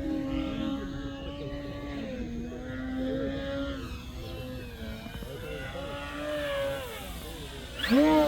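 Electric RC model airplane's motor and propeller humming in flight, its pitch slowly rising and falling as it throttles and passes. A louder, fast-wavering sound starts near the end.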